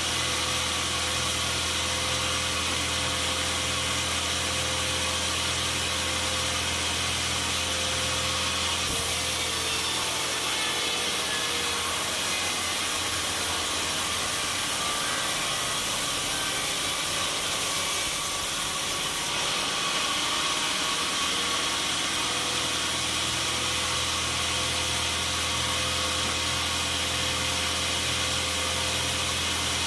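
Sawmill machinery running with a steady engine-like hum. From about nine seconds in to about nineteen, the low drone drops away and the sound turns hissier, then it returns to the steady hum.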